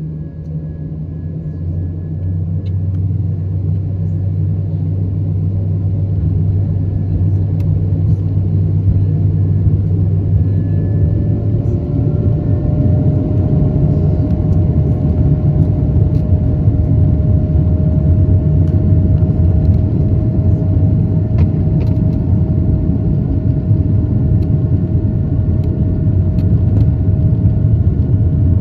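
Airbus A220-300's Pratt & Whitney PW1500G geared turbofans heard from the cabin, spooling up with a deep rumble that grows louder over the first dozen seconds, then running at steady high power with a hum that rises slowly in pitch: typical of the takeoff roll.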